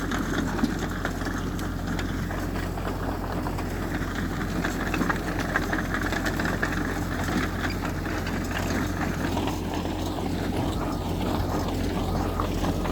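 Heavy diesel earthmoving machinery running steadily, a deep engine drone with a constant mechanical clatter over it.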